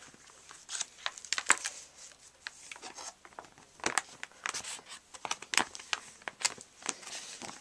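Paper rustling and crinkling as the pages of a handmade paper book are handled, with many short irregular crackles and clicks.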